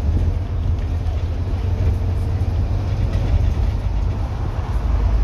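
Scania N230UD double-decker bus's five-cylinder diesel engine pulling under way, a deep, steady drone with road and body noise over it.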